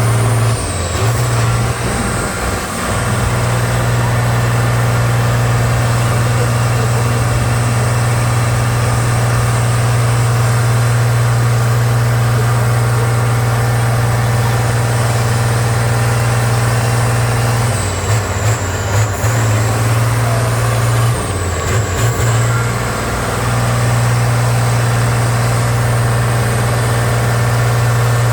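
Heavy off-road trial truck's diesel engine running hard and steady, with a thin high whistle over it. The engine briefly eases twice, at about 18 and 22 seconds in, and the whistle drops each time before both come back up.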